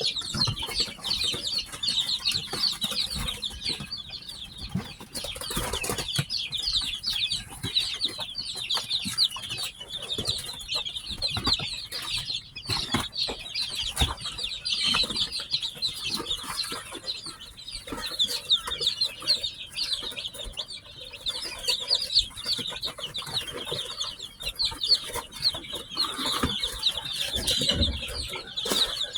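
Many newly hatched chicks peeping together in a dense, continuous chorus of short, high chirps, with scattered soft knocks underneath.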